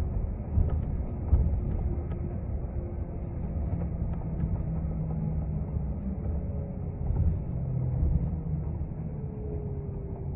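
City transit bus under way, heard from inside the passenger cabin: a steady low rumble of engine and road noise, with a faint drivetrain whine slowly rising and falling in pitch and light clicks and rattles.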